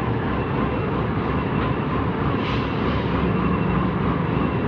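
Heavy diesel engine of construction machinery running steadily with a deep, even rumble, with a short click about halfway through.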